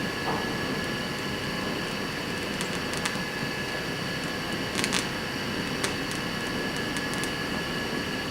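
Gas torch flame hissing steadily while it heats a rod end to red heat, with a few faint clicks over it.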